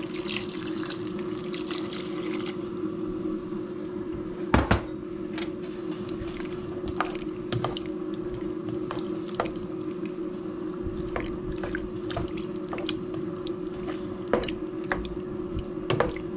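Broth poured into a pan of sautéing vegetables for the first couple of seconds, then scattered drips and clicks, with one sharp knock about four and a half seconds in. A steady low hum runs underneath.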